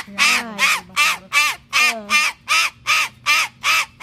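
Parrot giving a fast run of short, harsh caw-like calls, about eleven in four seconds, each with a bending pitch, the pace quickening slightly toward the end.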